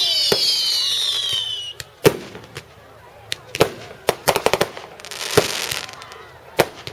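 Fireworks: several whistles sound together, each falling in pitch, and stop just before two seconds in. Sharp bangs follow: one at about two seconds, a quick run of cracks a second or so later, a brief hiss, then another bang near the end.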